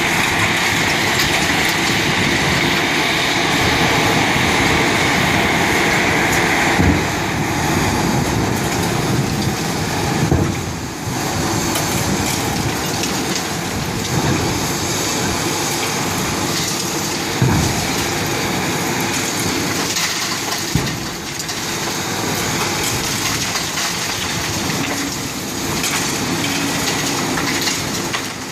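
Demolition machinery breaking up a concrete building: a steady, noisy din of crushing and falling rubble, with a few separate heavy knocks spread through it.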